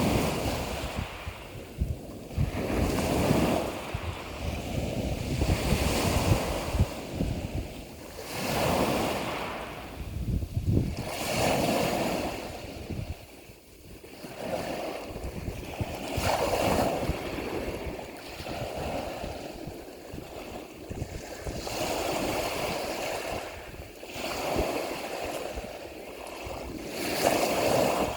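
Ocean waves washing in and falling back, a fresh swell of surf every two to three seconds, with wind rumbling on the microphone.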